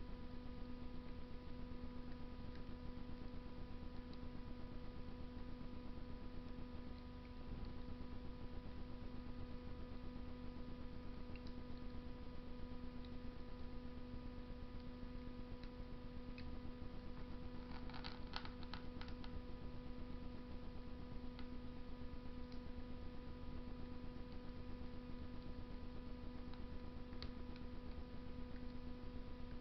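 Wood fire burning in a Russian masonry stove: sparse, faint crackles and ticks over a steady hum and hiss, with a quick cluster of several snaps a little past the middle.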